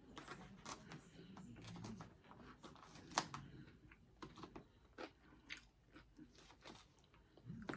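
A person chewing a mouthful of salad close to the microphone, with scattered crisp crunches; the sharpest crunch comes about three seconds in.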